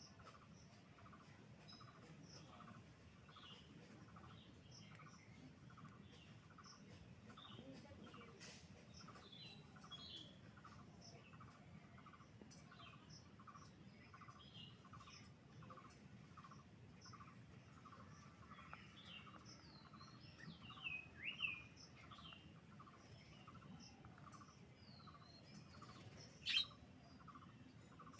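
Faint outdoor bird calls: a single note repeated steadily about twice a second, with scattered higher chirps over it and a louder burst of chirping about 21 seconds in. A sharp click sounds near the end.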